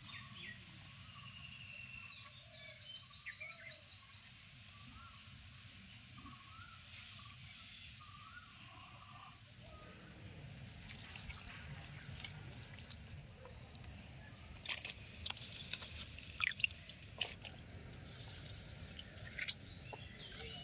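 A small bird trilling: a quick run of about a dozen sharp, high, downward-sliding notes, roughly six a second, lasting about two seconds and starting about two seconds in. Light scattered clicks and taps follow in the second half.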